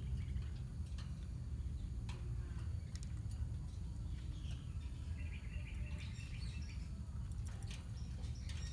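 A colony of lovebirds chirping and chattering in short, scattered calls, busiest around the middle, over a steady low rumble.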